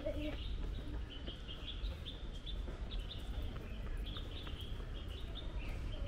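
Small birds chirping in quick, repeated short calls, over a steady low outdoor rumble.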